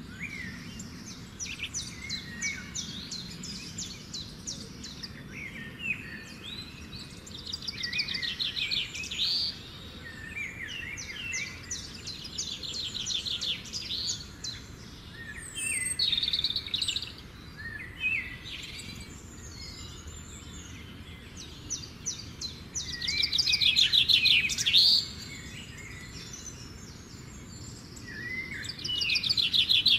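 Several songbirds singing, a mix of short chirps, whistled notes and fast rattling trills, over a faint steady low background. The loudest trill comes near the end.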